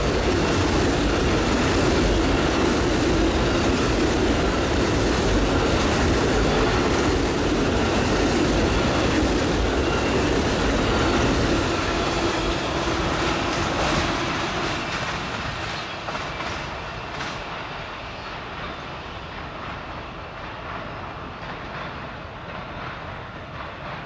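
Amtrak Auto Train cars rolling past at speed, their wheels clicking over the rail joints. After about twelve seconds the sound dies away as the train moves off.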